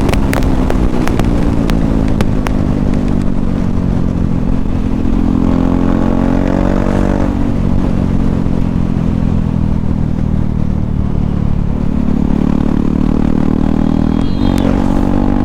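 KTM Duke 390's single-cylinder engine running loud with its exhaust removed as the motorcycle is ridden. The engine note eases off over the first several seconds, then rises again about twelve seconds in.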